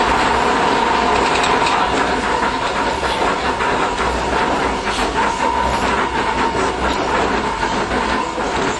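An older Iyotetsu Matsuyama city streetcar running, heard from inside the car: wheels clicking over the rails amid steady running noise, with a steady high-pitched whine that fades in the middle and comes back.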